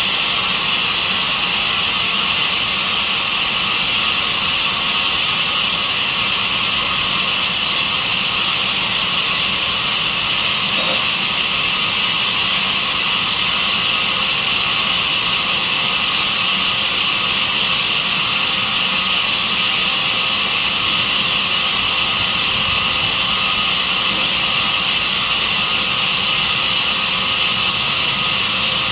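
Sawmill saw machine running steadily: a constant high-pitched mechanical noise with a faint steady hum, unchanging throughout.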